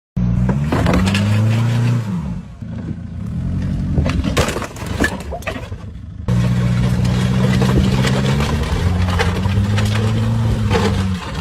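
Car engine running with its pitch rising and falling, and a burst of cracking, crunching impact noise about four to five seconds in, typical of a car crash.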